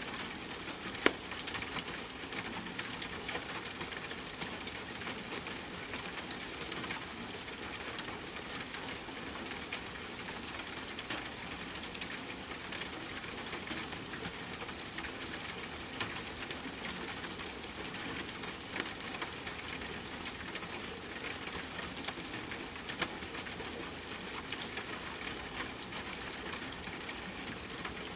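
Wood fire crackling with scattered small pops over a steady hiss of rain, with a sharper pop about a second in and another later on.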